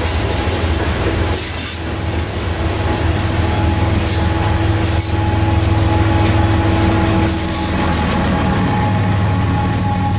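A train rolling past on the rails, its steel wheels squealing in several high bursts over a steady low rumble.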